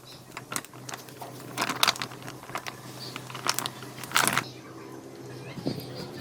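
Scattered sharp clicks and short crackling knocks of hand work with craft materials, two louder ones about two and four seconds in, over a faint steady low hum.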